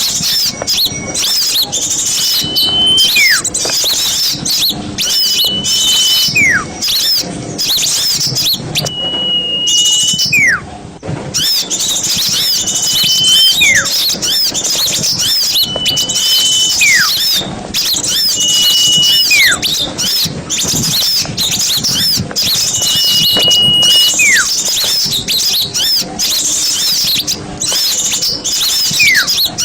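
Mixed small songbirds chattering densely, a bird-lure recording of small-bird calls. Over the chatter one call repeats about every three seconds: a steady high whistle held briefly, then a sharp downward sweep.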